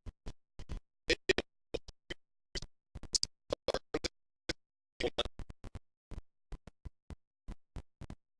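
Choppy, broken-up audio: short clicks and snatches of sound, several a second, each cut off by dead silence, as the recording's sound drops in and out.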